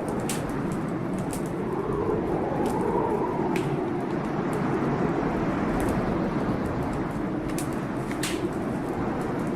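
Heavy blizzard wind howling steadily, its pitch slowly rising and falling, with a wood fire crackling and popping in sharp clicks scattered through it.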